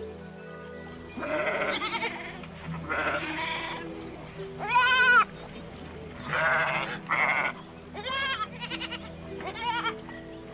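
An animal bleating, about six quavering calls a second or so apart, over steady background music.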